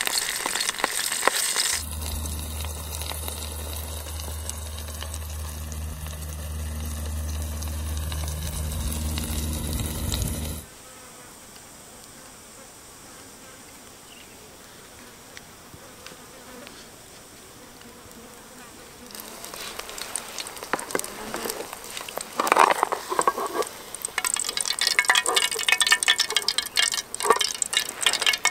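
A fly buzzing close by for about nine seconds, a steady low drone that cuts off abruptly. After a quiet spell, a run of irregular crackles and clicks.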